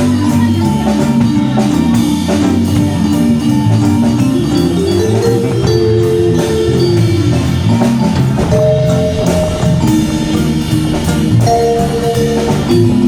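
Live band of drums, bass, keyboard, guitar and horn playing a jazz-pop song, with a steady drum beat under sustained chord and melody lines.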